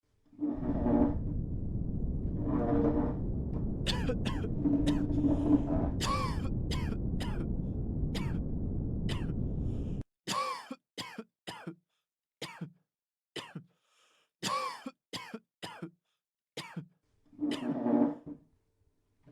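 Practice background noise for a test room, made of human coughing and throat clearing. For the first ten seconds it sits over a dense low rumble that cuts off abruptly. After that comes a run of short, separate coughs.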